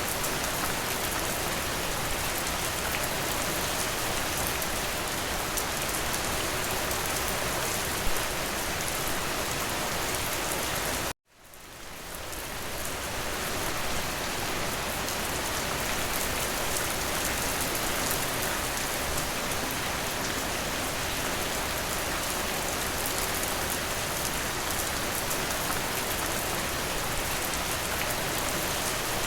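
Steady, even rain. One sharp drop tick comes about eight seconds in. About eleven seconds in the rain cuts out abruptly and then fades back in over a couple of seconds, a splice in the looped recording.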